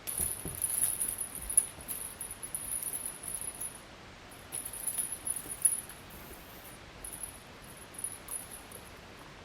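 Light jingling and rustling in quick bursts, with a few soft knocks, pausing about four seconds in and returning in short spurts.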